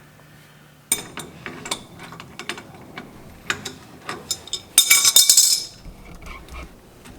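Metal tools and parts clinking and clanking in a string of sharp, separate knocks, with a louder rattling clatter about five seconds in.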